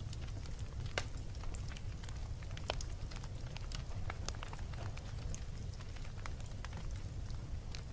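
Wood fire burning in a fireplace: a steady low rumble of flame with scattered sharp crackles and pops, a louder pop about a second in and another near the middle.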